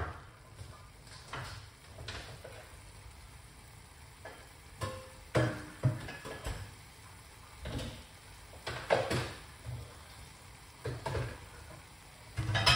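Onions and tomatoes frying in a pot, a faint steady sizzle, with a wooden spoon stirring in short strokes every second or two.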